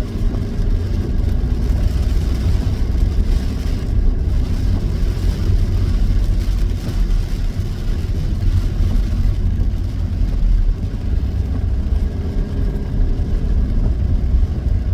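Steady low rumble of a road vehicle driving, its engine and tyre noise running on without a break.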